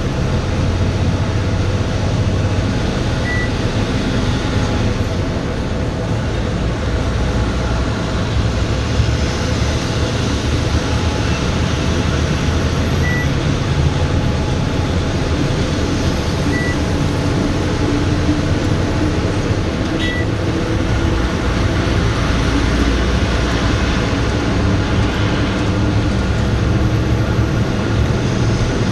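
Heavy truck's diesel engine running under way: a steady drone with road noise. A few short, high beeps sound at irregular moments.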